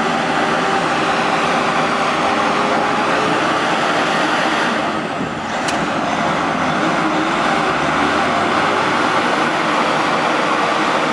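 Oilfield bed truck's diesel engine running hard and steadily while it lifts a drilling rig substructure onto its bed. The level dips briefly about halfway through, with a single sharp click just after.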